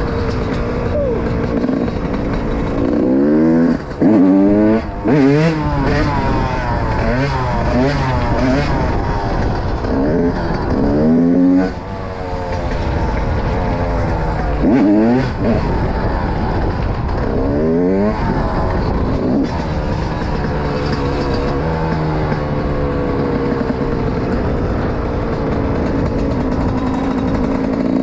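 Yamaha YZ125 single-cylinder two-stroke dirt bike engine being ridden, revving up and down over and over in quick rising-and-falling sweeps. The sharpest rev-ups come in the first half, and it runs more evenly through the second half.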